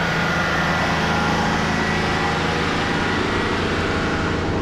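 A car or truck driving, with a steady rush of engine and road noise.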